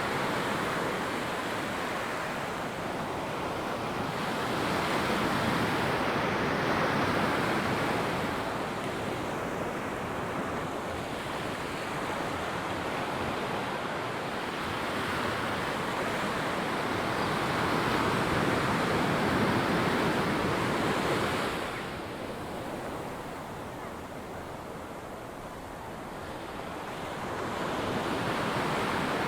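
Ocean surf breaking and washing up a sandy beach, swelling and easing every few seconds, with some wind noise on the microphone.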